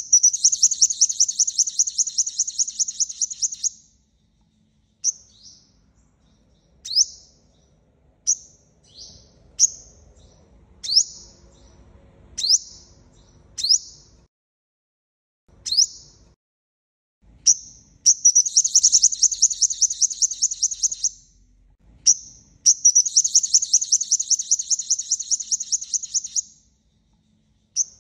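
Sunbird song, the 'five-colour' sunbird call used as a trapping lure: long rapid high trills lasting a few seconds each, with a run of single sharp down-slurred chips about one a second between them.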